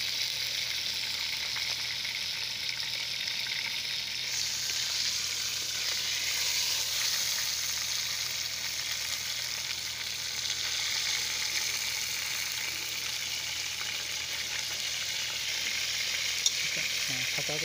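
Whole marinated chicken frying in hot oil in a steel pot, with a steady sizzle. A single sharp click comes near the end.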